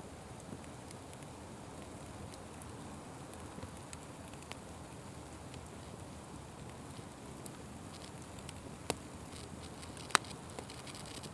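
Wood fire burning with a steady low rush and scattered light crackles. Two sharp pops come near the end, the second the loudest.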